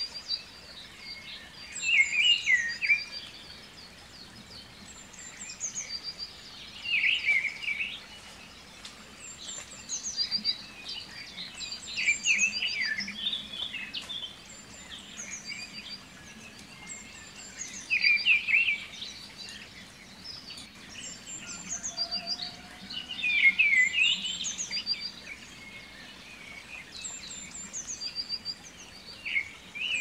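Birdsong: a bird repeating a short, chirpy phrase about every five to six seconds, with fainter high chirps in between.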